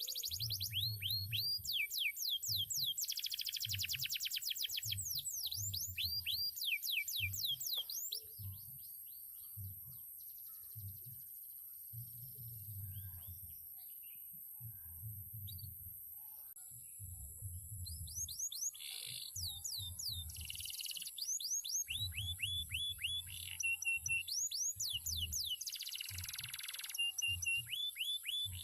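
Male canary singing long, rapid trills of fast falling whistles, with a quieter pause of several seconds in the middle before the song picks up again. A low, repeated thudding runs underneath.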